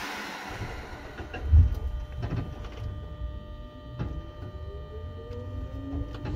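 Seibu 2000 series electric train pulling away from a stop, heard inside a motor car: a sudden hiss at the start, a loud low thump about a second and a half in, then low rolling rumble with wheel clicks and traction motor whine that rises in pitch as the train gathers speed.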